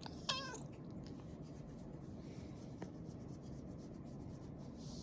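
A house cat gives one short, wavering call near the start, then only faint room sound with a few small clicks.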